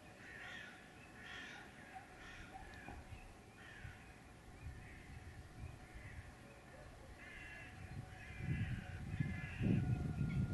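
Birds calling: short calls repeated throughout, heard over a waterside reed bed. About eight seconds in, a louder low rumble comes in.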